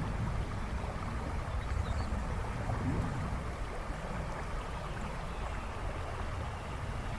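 River water rushing and babbling steadily, with a deep rumble underneath.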